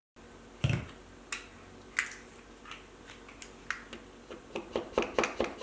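A run of sharp clicks or taps over quiet room tone, with one duller knock about a second in; they come singly at first, then quicken near the end to about three or four a second.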